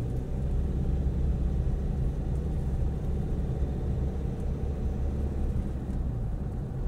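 A steady low rumble with no distinct events, such as a vehicle running or wind buffeting a microphone.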